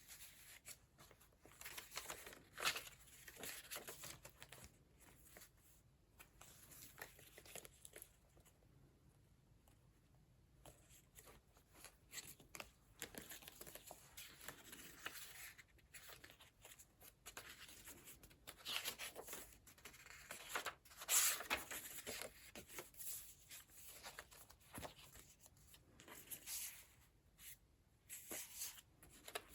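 Paper pages of a thick handmade junk journal being turned and handled: soft, intermittent rustles and crinkles of paper, with a short lull about eight to eleven seconds in and a louder flurry around twenty seconds in.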